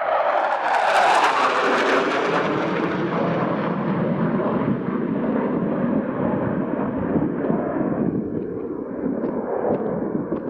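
A Panavia Tornado GR4's twin RB199 turbofans passing close by: the jet noise is loudest about a second in with a falling pitch as it goes past, then a rumble that slowly eases.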